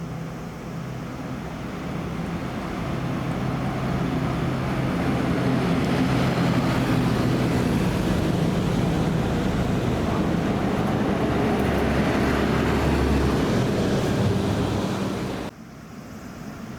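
Large bus's diesel engine running close by, with steady low engine hum and road noise, growing louder over the first few seconds as the bus draws near and holding steady, then cutting off abruptly near the end.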